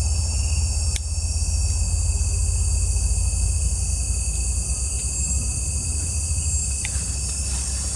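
Night insects such as crickets chirring steadily at a high pitch over a constant low rumble, with a single sharp click about a second in.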